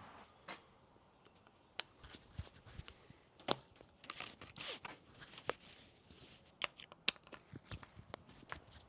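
Scattered sharp clicks and taps of small parts and tools being handled on a bicycle during brake work, with a brief scraping rustle about four seconds in.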